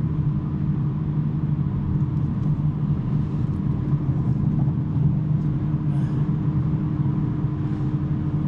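Steady drone of a BMW M3 G80's twin-turbo inline-six, fitted with a non-resonated J-pipe, holding an even engine speed while the car drives, with road and tyre noise underneath.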